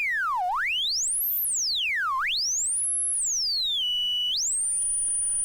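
A pure sine-wave tone from a synthesizer, its frequency swept by hand in wide glides. It dips low, climbs to a piercing high whistle, dips and climbs again, pauses briefly on a middle pitch, then rises and holds a steady high tone. This is the manual pitch modulation being tried out to imitate bird chirps.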